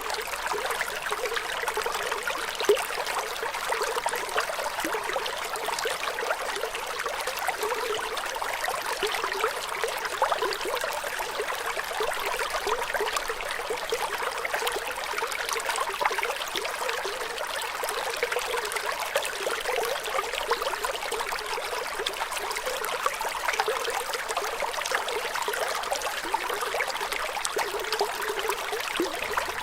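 Flowing water trickling and babbling steadily, an even rushing wash with little low end.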